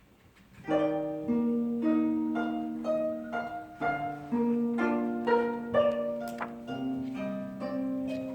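Gayageum, the Korean plucked zither, playing a slow melodic line: single plucked notes about every half second, each ringing on and fading, starting just under a second in.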